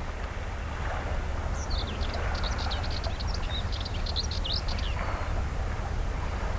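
A small bird chirping a quick run of high notes from about one and a half to five seconds in, over a steady low rumble.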